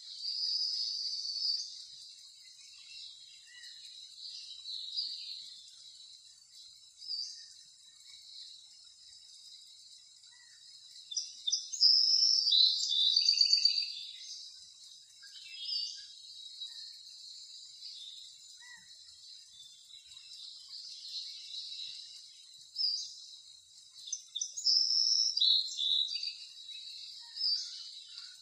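Birds chirping and trilling in short high-pitched bursts over a steady high hiss, with the busiest, loudest run of calls about halfway through and another near the end.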